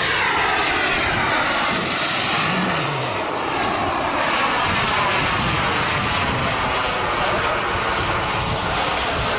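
Radio-controlled model jet's turbine engine in a loud fly-by: a continuous rush and whine, its pitch falling as it passes near the start and gliding up and down as it manoeuvres.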